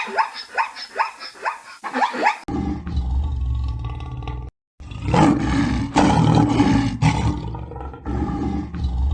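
A large animal roaring in long, deep, rough calls, loudest in the middle, after a quick run of short yelping cries falling in pitch in the first couple of seconds.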